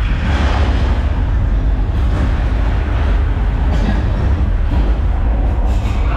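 Simulated earthquake effect: a loud, steady, deep rumble.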